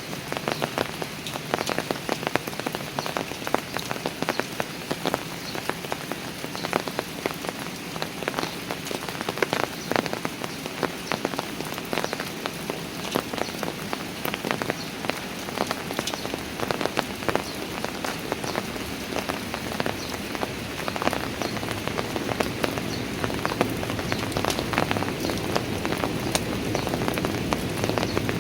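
Steady rain falling on park stairs, with many close individual drops tapping throughout.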